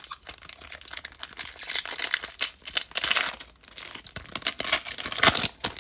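Wrapper of a Topps Fire baseball card pack being torn open and crinkled by hand: a run of dense crackling and tearing, loudest around the middle and again near the end.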